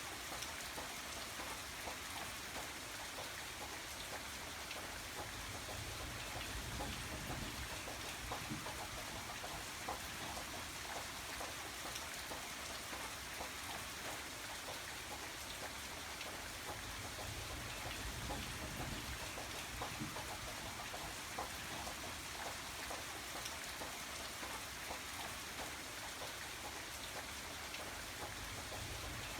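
Steady rain falling, with many individual drops ticking against a surface over an even hiss, and a low rumble that swells and fades.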